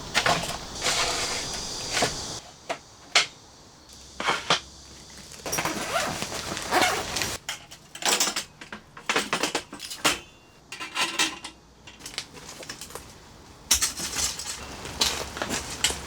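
Objects being handled: a string of irregular clinks, knocks and rustles, with one sharp knock about three seconds in.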